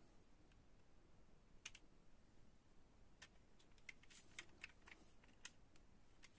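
Faint, scattered clicks and taps of small hard toy cars and their packaging being handled, one pair early and a quick run of them in the second half.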